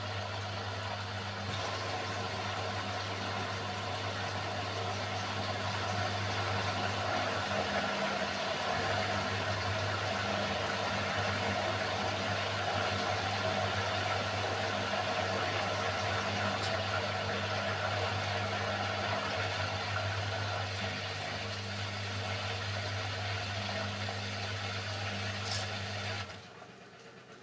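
Beko WMY81283LMB2 washing machine's drain pump running steadily, a low hum with water rushing through it, stopping abruptly about a second before the end.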